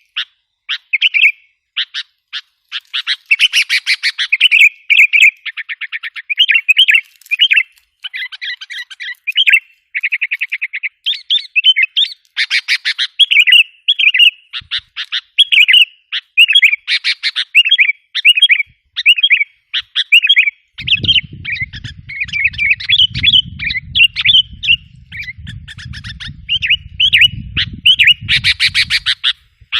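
Sooty-headed bulbuls calling in quick, loud chirps and chattering rattles, one phrase after another with hardly a pause. A low rumble runs under the calls for about eight seconds starting two-thirds of the way in.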